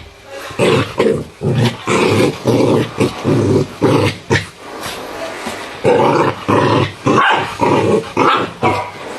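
Chinese rural dogs growling with a few gruff barks, in short irregular bursts about two a second.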